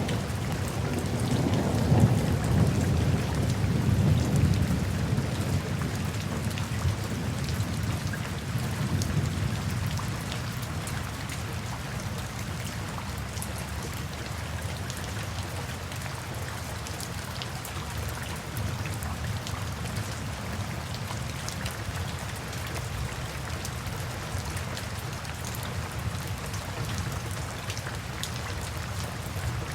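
Steady rainfall with scattered drop ticks. A low rumble of rolling thunder is heaviest in the first third and then fades away.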